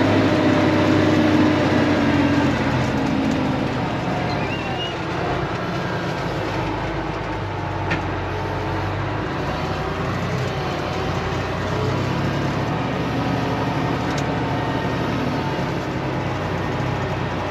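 Tractor engine running steadily, with a single sharp click about eight seconds in.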